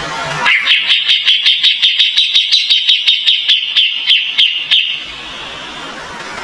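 Kapas tembak bulbul giving a rapid volley of about twenty sharp, high repeated notes, some four or five a second. The volley starts about half a second in and stops abruptly at about five seconds.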